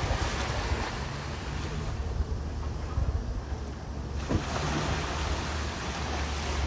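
Ocean surf washing in, with wind buffeting the microphone as a low rumble; the wash grows louder a little past halfway through.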